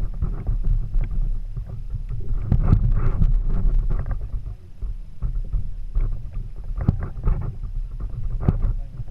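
Water slapping and splashing against a kayak's hull at sea, with wind buffeting the microphone in uneven gusts.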